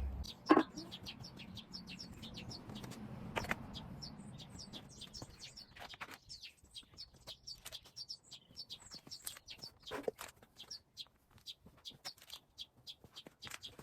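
Small songbirds chirping and twittering, a quick run of short high chirps throughout. A sharp knock comes about half a second in, and a fainter one about three and a half seconds in.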